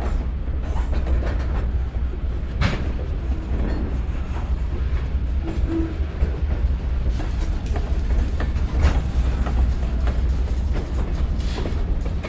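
Freight cars rolling slowly through a crossing, their steel wheels clicking and knocking irregularly over the rail joints above a steady low rumble. The sharpest knock comes about two and a half seconds in.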